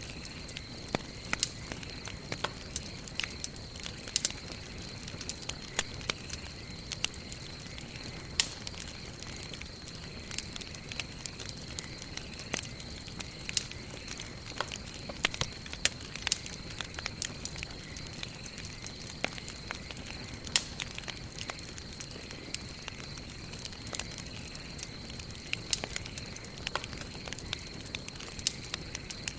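Wood fire crackling: irregular sharp pops and snaps from burning wood over a low, steady rush of the flames.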